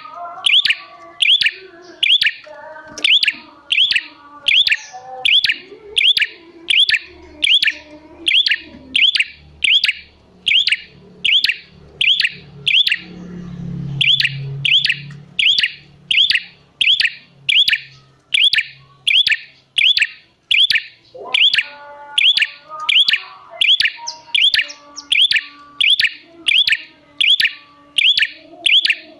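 Prenjak birdsong: one sharp, high chirp repeated at a steady pace of about one and a half a second, with fainter, lower twittering between the chirps and a low hum briefly in the middle. It is a lure call meant to set other prenjak calling in reply.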